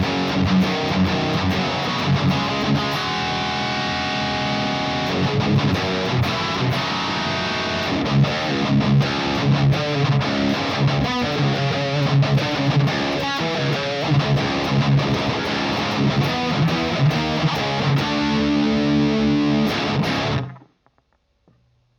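High-gain electric guitar played through a Mesa TC-100 tube amplifier's blue channel, pushed by an EQ/boost pedal. Heavy distorted riffing mixes held chords with tight, choppy chugs, and a final held chord cuts off sharply about twenty seconds in.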